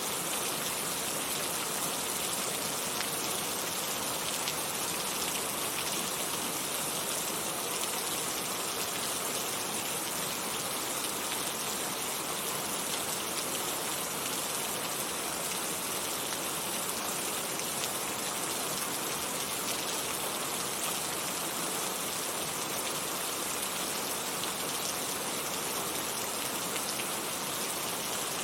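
Heavy rain falling steadily, a constant dense patter of drops on surfaces with no letup.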